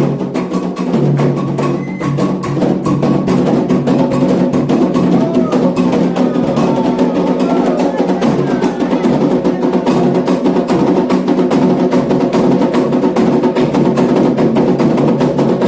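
Candomblé atabaque hand drums playing a fast, steady toque for the orixá Iemanjá, with a sharp wood-block-like stroke beating time.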